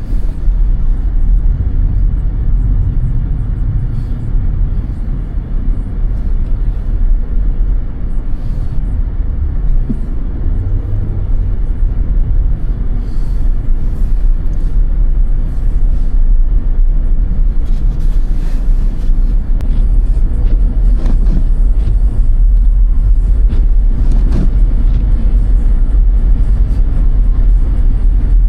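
Car driving along, a steady low rumble of engine and tyres on the road, with a few faint ticks scattered through.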